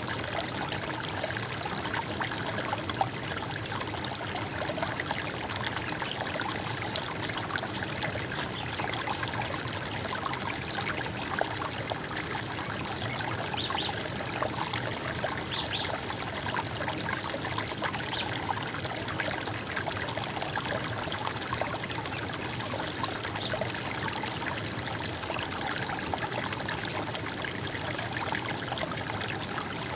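Stream water running steadily over stones.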